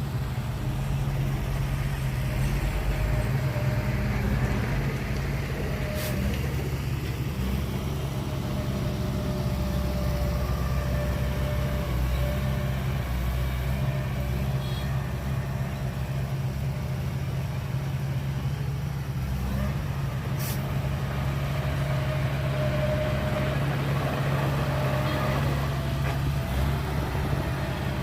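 Heavy diesel engine of earthmoving machinery, a dump truck or bulldozer, running with a steady low drone. Two brief sharp clicks come about a quarter of the way in and again past the middle.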